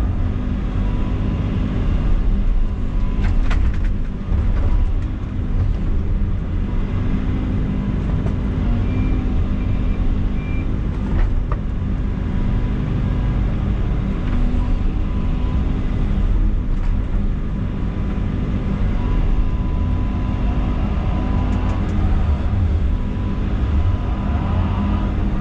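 Excavator's diesel engine running steadily under working load, with a few sharp knocks, and three short high beeps a little before halfway through.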